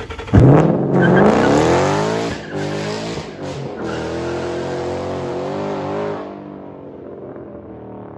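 A 2013 Mustang GT's 5.0-litre V8 with its muffler and resonators deleted, accelerating hard under full throttle: the exhaust note climbs in pitch, breaks at a gear change about two seconds in, climbs again and holds, then falls to a much quieter note about six seconds in as the throttle comes off.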